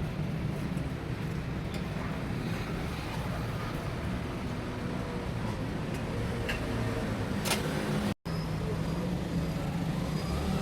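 Steady roadside traffic noise with a vehicle engine running low and even. The sound drops out completely for a split second about eight seconds in.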